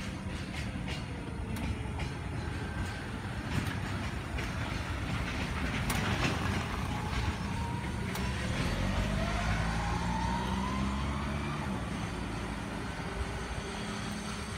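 Freight train of container wagons rolling past behind an EF66 electric locomotive: a steady low rumble of wheels on rail with scattered sharp clicks.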